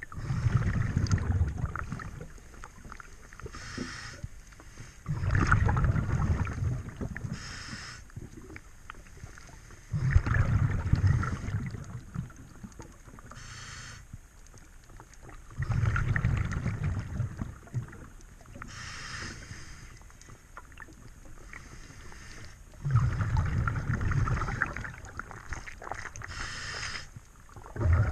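Diver breathing underwater through a regulator: a bubbling rush of exhaled bubbles about every five to six seconds, six breaths in all, each preceded by a short, thin hiss of inhalation.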